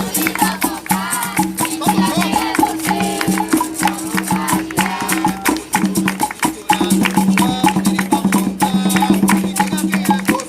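Capoeira roda music: berimbau notes over a rattling caxixi and hand percussion such as pandeiro, with voices singing.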